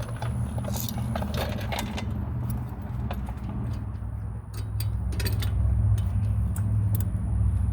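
Light metal clinks and taps of a C-clamp being fitted against a brake caliper, over a steady low rumble that gets louder about halfway through.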